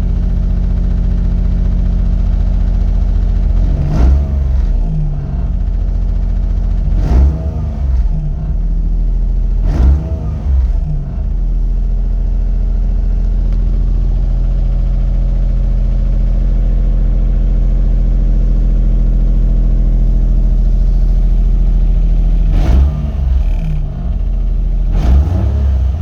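Daihatsu EF-DET 660 cc turbo three-cylinder engine idling through a Fujitsubo Power Getter aftermarket exhaust, blipped about five times with quick revs that rise and fall, three close together in the first ten seconds and two more near the end.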